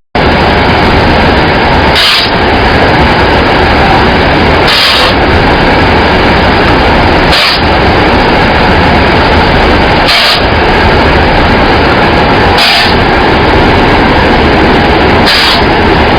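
Rice husk carbonization machinery running with a loud, steady mechanical noise. A short hiss bursts out regularly, about every two and a half to three seconds, six times in all.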